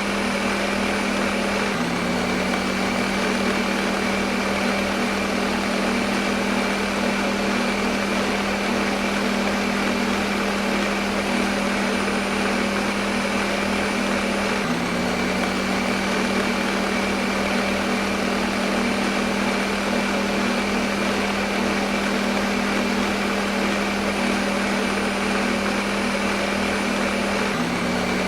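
Electric kitchen blender running steadily, a constant motor hum under a dense whirring rush. There is a slight hitch in the motor tone about every 13 seconds.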